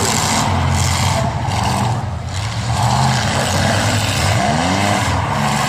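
Demolition-derby truck engines running hard and revving, one engine's pitch climbing about two-thirds of the way through.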